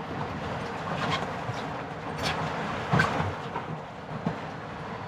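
Strong wind buffeting the microphone, a steady rushing noise broken by a few short knocks, the loudest about three seconds in.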